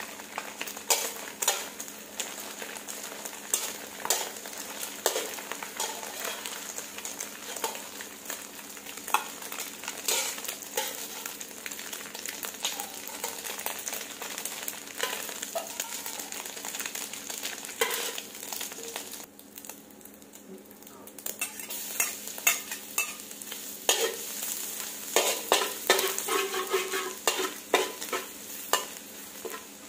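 Scrambled egg and then chopped garlic sizzling in hot oil in a coated wok, with a metal spatula stirring and scraping against the pan in frequent sharp clicks. The sizzle drops briefly about two-thirds of the way through. Quick stirring strokes follow near the end.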